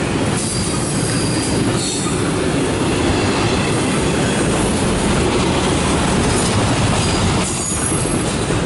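Double-stack intermodal freight train rolling past at close range: a steady, loud rumble of steel wheels on rail, with a few faint, high wheel squeals.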